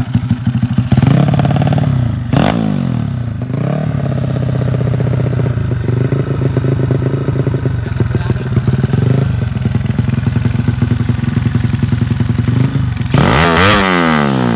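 Motorcycle engine, a Honda C70-type single-cylinder four-stroke bored out to 180cc, running steadily and revved in short blips several times. The highest rev comes near the end, rising and falling steeply.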